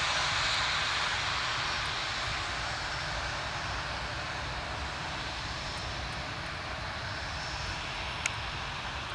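Airbus A319 airliner's jet engines, a steady broad rush with a low rumble that slowly fades. A single sharp click sounds near the end.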